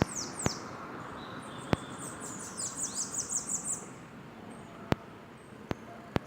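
Bananaquits singing: a few quick high downward-sweeping notes at the start, then a fast run of about nine high descending notes in the middle. Several sharp clicks, louder than the song, come at irregular intervals.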